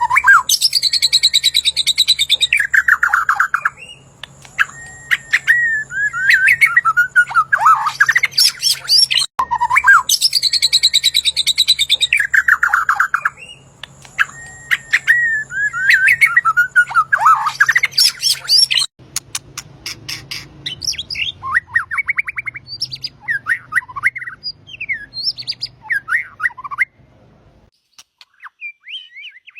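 A songbird singing loud, fast phrases of trills and sweeping whistles, with the same long phrase given twice in a row. Softer, scattered chirps follow from about 19 seconds in and stop near the end.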